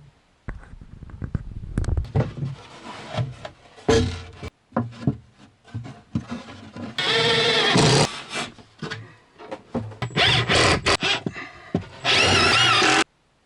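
Plywood being handled and worked: irregular knocks, bumps and scraping of boards. About halfway and again near the end comes a roughly one-second run of a power tool with a whine, and each run stops abruptly.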